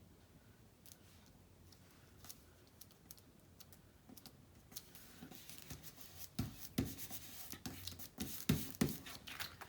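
Paper being handled and snipped with scissors on a work table: faint scattered clicks at first, then rustling and a quick run of sharp snips and taps in the second half.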